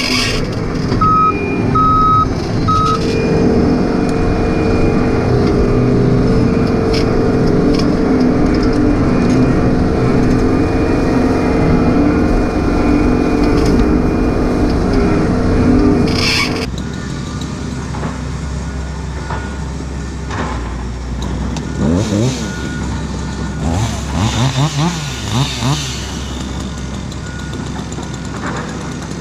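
Diesel engine of a John Deere 135 excavator running steadily, with its travel alarm beeping three times a couple of seconds in and again briefly later. About 17 seconds in the sound drops abruptly to a quieter engine drone, with short rising and falling squeals around 22 to 26 seconds in.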